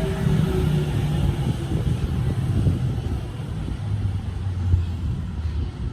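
Electric train running past at speed, its rumble mixed with a motor hum that slowly falls in pitch, the whole sound easing off toward the end as it moves away.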